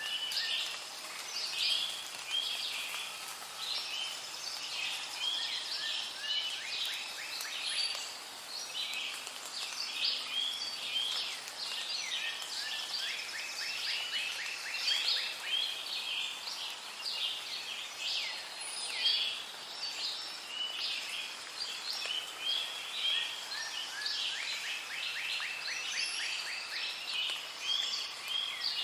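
Rainforest bird chorus: many birds chirping and calling over one another, with a few rapid trills of evenly spaced notes, over a faint steady hiss.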